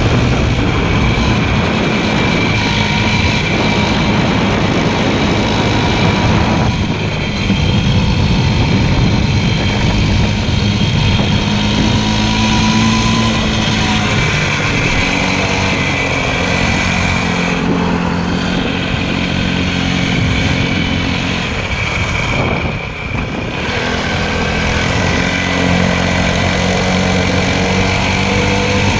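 Motorcycle engine running steadily under way, its pitch drifting up and down, with a brief drop in level about three-quarters of the way through.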